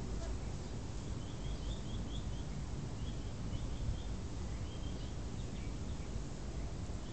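Steady low outdoor rumble, with a small bird chirping faintly in three quick runs of short high notes.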